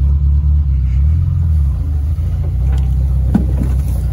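Engine of an old Suzuki 4x4 running at low speed, a steady low drone heard from inside the cab as it creeps through tall grass. A couple of brief knocks come near the end.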